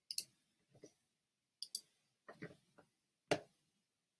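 Computer mouse clicking about five times, in quick pairs, with a few soft knocks in between, in a small room.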